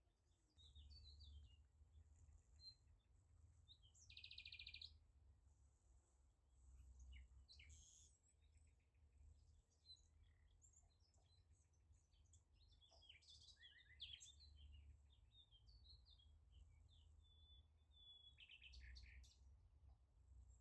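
Faint birdsong: many short chirps and a few rapid trills, over a steady low rumble.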